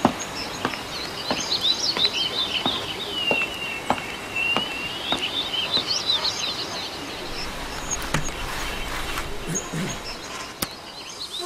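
Small birds chirping and twittering over a steady outdoor background hiss, with scattered sharp clicks.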